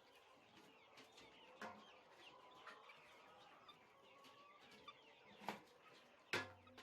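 Poultry flock faintly clucking and chirping, with scattered short calls. Two sharp knocks come near the end, the second the loudest sound.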